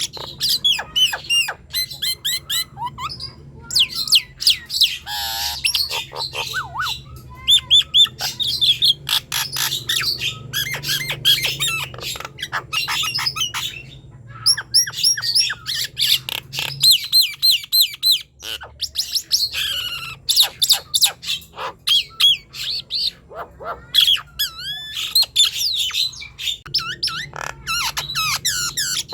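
Nias hill myna singing busily: a fast, varied run of whistles, sliding notes, clicks and squawks, broken by a few short pauses.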